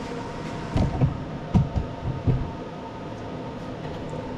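A bucket being handled and set down: a handful of dull thumps and knocks between about one and two and a half seconds in, over a steady background hum.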